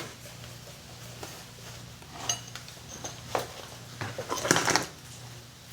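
Small hard clicks and taps of plastic modelling tools set down and picked up on a tabletop while Play-Doh is being shaped, scattered, with a quick cluster of clatters about four seconds in. A steady low hum runs underneath.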